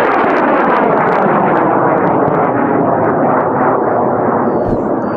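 Aerotech N4000 high-power rocket motor firing on a launch, a loud continuous rushing roar that holds steady and eases only slightly toward the end.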